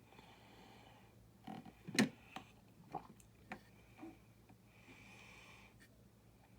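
Two nasal breaths close to the microphone, one at the start and one about five seconds in. Between them come a handful of small sharp clicks and taps from plastic building pieces being handled, the loudest about two seconds in.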